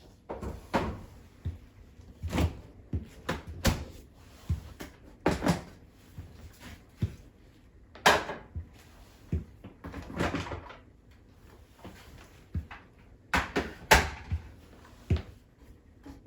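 Things being handled in a refrigerator during cleaning: an irregular series of knocks, clicks and clatters as containers and fridge parts are moved and set down, with a few longer noises in between.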